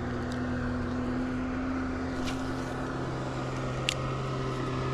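Steady engine drone, even in pitch throughout, with a few faint clicks over it.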